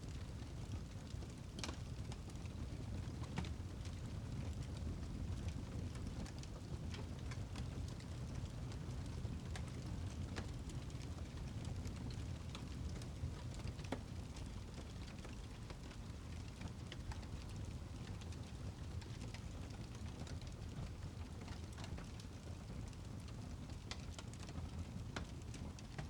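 Wood fire in a fireplace crackling: scattered sharp pops and ticks, a few every second or two, over a steady low rumble.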